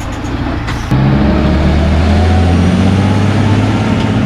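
Heavy coal haul truck's diesel engine running loud and steady. It jumps suddenly louder about a second in, and its pitch rises slightly after that.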